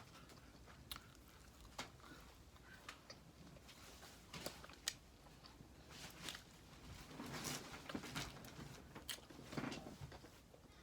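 Faint, close mouth sounds of a person chewing and eating: scattered wet clicks and soft smacks, a little busier in the second half.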